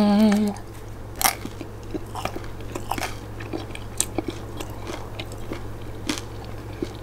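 A person chewing a mouthful of naan-bread pizza close to the microphone: scattered short wet clicks and smacks of the mouth, over a faint steady low hum. It opens with a short hummed "mmm" that ends about half a second in.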